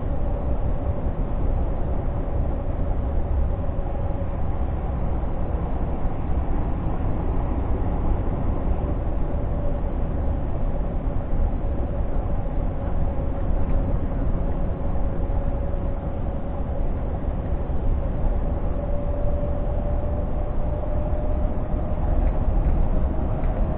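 Scania G460 truck on the move, heard from inside the cab: a steady engine and road rumble with a thin whine that drifts slightly in pitch.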